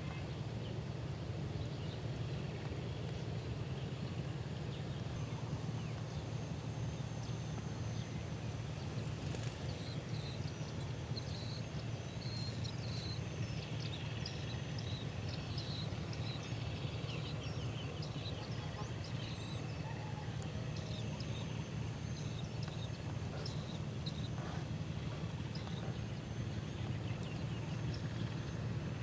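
Small birds chirping: many short, high notes, busiest in the middle, over a steady low rumble.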